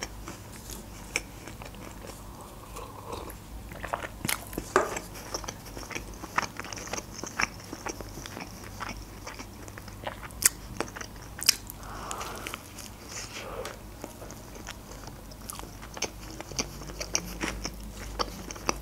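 Close-miked chewing of a bite of McChicken burger, with many small, sharp mouth clicks throughout.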